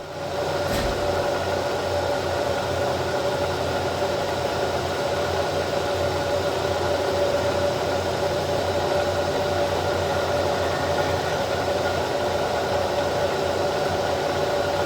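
A large milling machine's spindle drive starts up and runs steadily, its motor and gearing giving an even hum with a constant whine.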